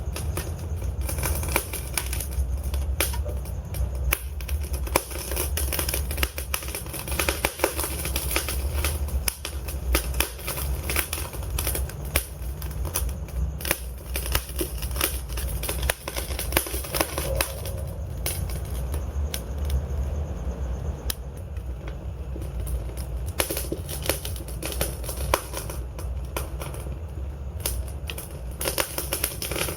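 Logs burning in a fireplace, crackling with many sharp pops and snaps over a low, steady rumble.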